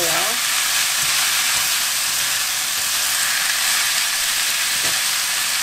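Dried sweet potato stems sizzling in oil in a nonstick pan as they are stir-fried with wooden chopsticks: a steady frying hiss.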